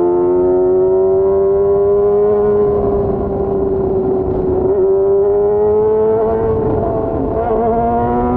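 Yamaha FZ6's inline-four engine running under way. Its note climbs gently, holds, and drops to a lower note near the end, over steady wind and road noise.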